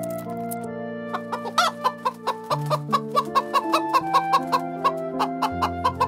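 Hens clucking in a quick run of short clucks, about five a second, starting about a second in, over background music with sustained notes.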